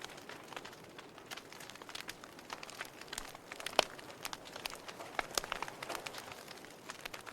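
Wood fire crackling in a fireplace: irregular sharp pops and snaps over a soft steady hiss, with one louder pop about four seconds in.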